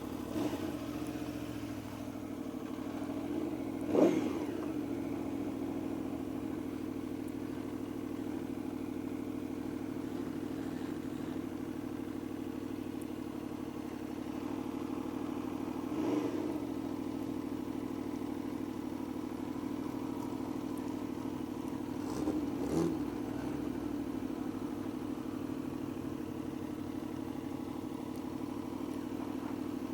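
Motorcycle engine running steadily, with three brief louder swells: a sharp one about four seconds in, a smaller one midway, and a double one a few seconds later.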